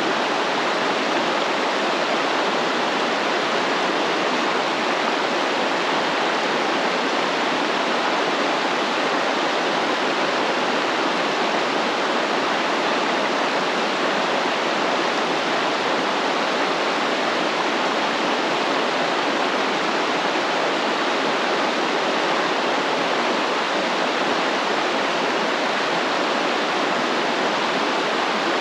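A stream flowing steadily, its rushing water making an even, continuous hiss with no breaks.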